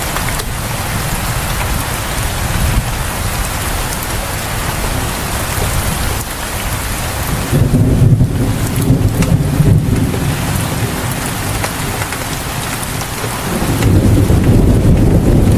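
Steady rain falling on surfaces, with a low rumble of thunder about halfway through and another starting near the end.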